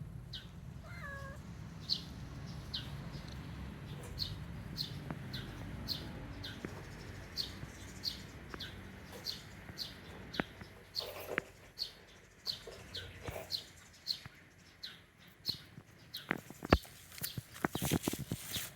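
A cat meows briefly about a second in, against short, high, falling chirps that repeat every half second or so throughout. A few sharp clicks come near the end.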